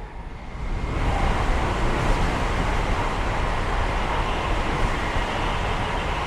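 A Chinese high-speed EMU train passing at speed: a rushing noise that swells about a second in and then holds steady.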